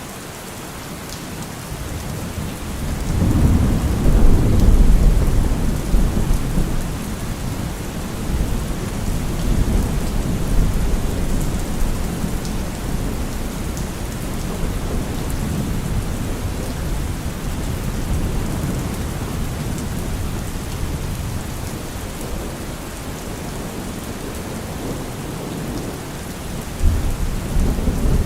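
Heavy rain drumming steadily on a car roof, with a long roll of thunder that builds a few seconds in and slowly dies away. Another rumble of thunder rises near the end.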